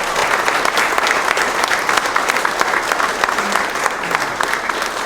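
An audience applauding, a dense steady clatter of many hands clapping.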